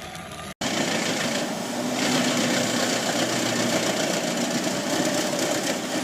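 Large Jenz HEM 700 D wood chipper running steadily, its engine noise mixed with the rasp of logs being shredded. It comes in abruptly about half a second in, with a steady hum under it.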